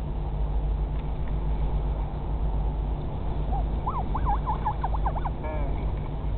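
Northern royal albatross chick calling: a quick run of high calls sweeping up and down in pitch, starting about halfway in and lasting about two seconds, over a steady low rumble.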